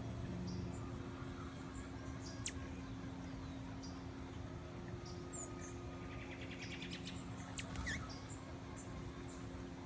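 Small birds calling: sharp high down-slurred notes about two and a half seconds in and again near eight seconds, scattered thin chips, and a brief rapid twittering series just before the second down-slur, over a steady low hum.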